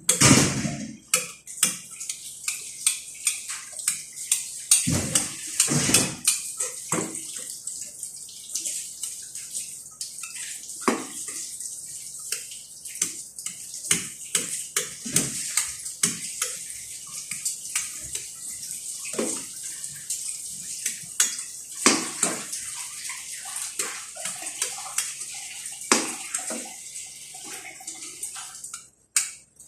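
Water running or splashing, with many short clinks and knocks of dishes and utensils through it.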